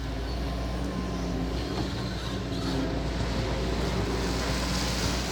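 A large vehicle engine running steadily with a low, even hum.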